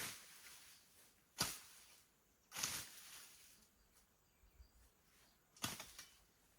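Hand scythe strokes swishing through grass and brush: four short, irregularly spaced swishes, one with a sharp crack.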